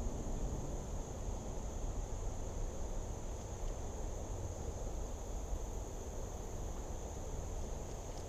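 Insects calling in a steady, even high-pitched drone, over a low rumbling noise.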